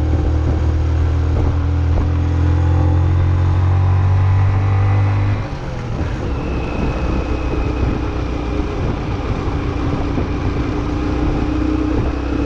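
Road traffic: a motor vehicle's engine runs steadily close by with a deep drone. About five and a half seconds in, the deep part drops away and a lighter, steady engine hum with a thin whine carries on.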